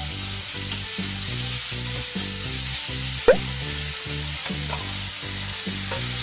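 Minced garlic sizzling in hot oil in a nonstick frying pan, stirred and pushed around with a wooden spatula. A brief sharp rising squeak stands out about halfway through.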